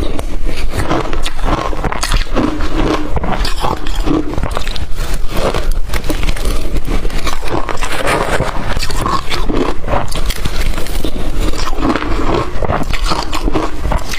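A person biting and chewing blended crushed ice: loud, dense crunching and crackling, bite after bite.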